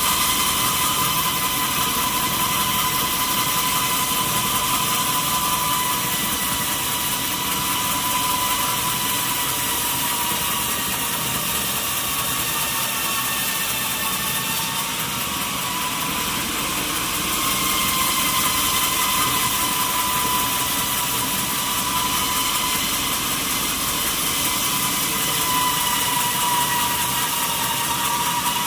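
Sawmill saw running through mahogany timber: a steady high whine over a dense hiss, its pitch sagging slightly about halfway through and then recovering.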